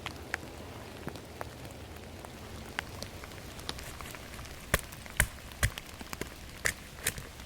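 Steady rain falling in a forest, with single heavy drops landing as sharp ticks, louder and more frequent in the second half.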